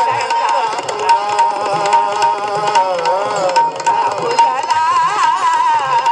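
Marathi devotional bhajan music: a voice sings a wavering, ornamented melody over a steady held tone, with hand-drum strokes and sharp percussive strikes throughout.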